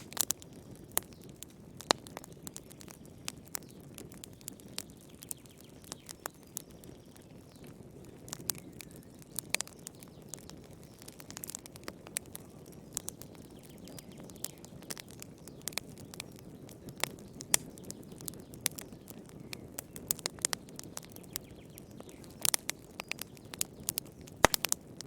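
Wood fire burning in a fireplace: a low steady rush of flame under frequent irregular crackles and sharp pops, with a cluster of louder pops near the end.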